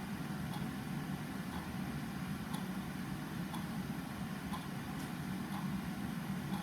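A clock ticking about once a second, faint, over a steady low hum or rumble that is the loudest part of the sound.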